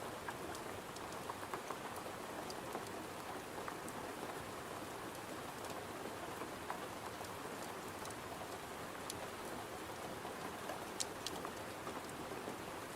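Steady rain pattering on a window, with scattered sharp crackles and pops from a wood fire; one louder snap about eleven seconds in.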